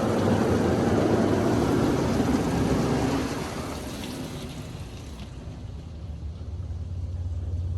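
Spot-free rinse water spraying onto a pickup truck, heard from inside the cab of a PDQ LaserWash 360 Plus touchless car wash, stopping about three seconds in. After that a low machine hum from the wash builds toward the end.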